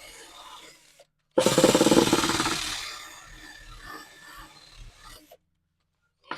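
Strip wheel scrubbing undercoating off a steel muffler: a loud, rough abrasive noise that starts abruptly about a second and a half in and fades away over the next few seconds.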